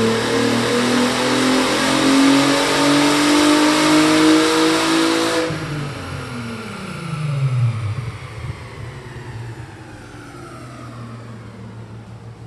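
VW Jetta wagon's VR6 engine, with stage 2 tune, aftermarket intake and muffler delete, revving up under load on a chassis dyno in third gear, its note climbing steadily. About five and a half seconds in the throttle is lifted, and the engine and drivetrain coast down with a falling whine.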